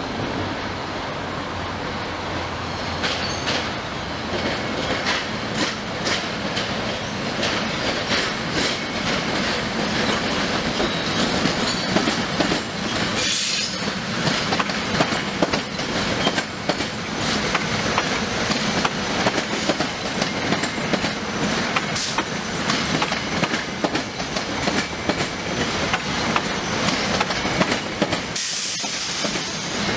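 SEPTA GE Silverliner IV electric multiple-unit train rolling slowly past, its steel wheels clattering and clicking over rail joints and switches. The rumble grows louder from about ten seconds in as the cars come by.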